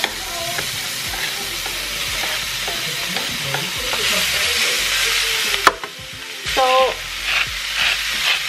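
Thin-sliced raw steak sizzling in hot oil as it hits a wok of stir-fried peppers and onions, stirred with a wooden spatula. The sizzle is a steady hiss, broken about two-thirds through by a sharp knock and a brief dip in level.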